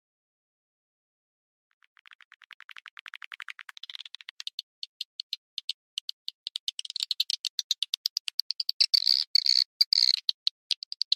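Swiftlet lure call: a fast train of short, high chirping clicks that starts about two seconds in after a silent gap, grows steadily louder, and thickens into dense twittering near the end.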